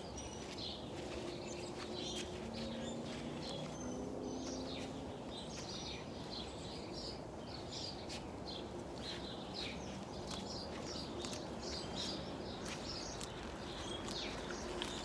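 Small birds chirping and calling, many short high calls scattered throughout, over steady low background noise. A faint low steady hum is heard through the first few seconds.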